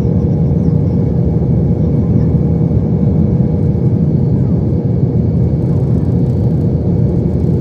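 Steady cabin rumble of a Boeing 737-800 in flight: a loud, even roar of engine and air noise with a constant hum running through it.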